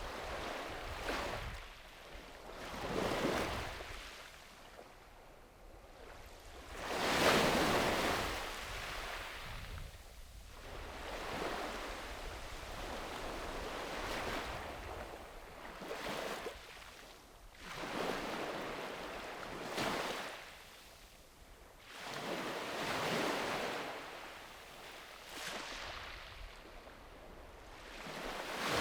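Small sea waves breaking and washing onto a beach in a series of swells, each rising and falling away over a second or two, the biggest about seven seconds in, with a low wind rumble on the microphone beneath.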